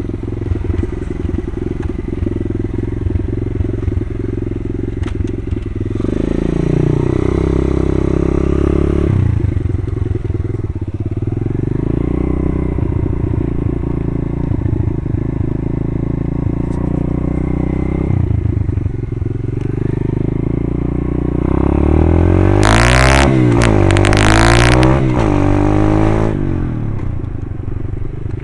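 Pit bike engine running and revving as the bike is ridden, its pitch climbing and dropping several times, recorded from a rider's head-mounted camera. A loud rushing noise swells over it about three-quarters of the way through.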